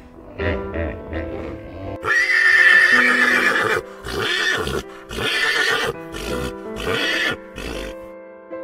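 Horse whinnying: one long, loud neigh about two seconds in, then several shorter whinnying bursts, over steady background music.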